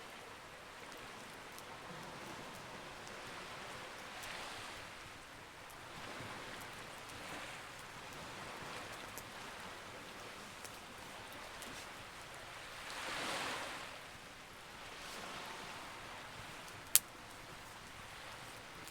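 Campfire crackling with scattered small ticks and one sharp, loud pop near the end, over a steady wash of sea waves that swells and ebbs every few seconds.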